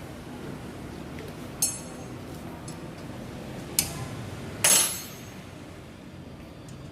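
Sharp metallic clinks from work on a car engine: three of them, about a second and a half, four and five seconds in. The first rings briefly and the last is a short clatter, over a steady low hum.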